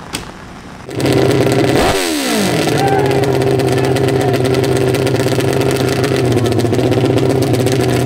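Custom hillclimb racing motorcycle engine firing up about a second in, its revs falling away, then running at a steady idle.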